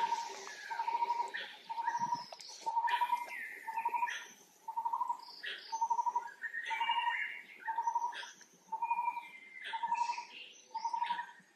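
Birds calling: one repeats a short trilled note about once a second, with scattered higher chirps and tweets over it.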